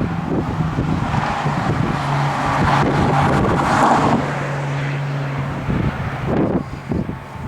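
A motor vehicle going by: a steady engine hum under a rush of road noise that swells in the middle and then eases, with wind buffeting the microphone.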